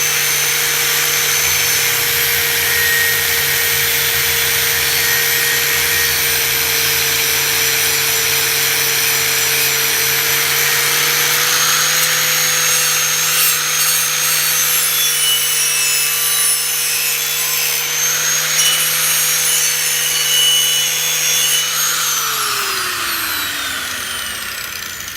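Angle grinder running steadily against a thin steel machete blade, grinding off rust. The thin blade's edge rings shrilly where the disc hits it. About 22 s in the grinder is switched off and its whine falls away as it spins down.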